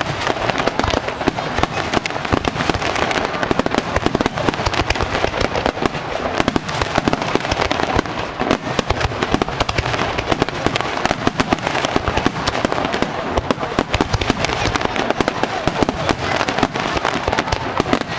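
Aerial fireworks bursting at close range in rapid succession: a dense, continuous barrage of loud bangs and crackling, many reports a second with no pause.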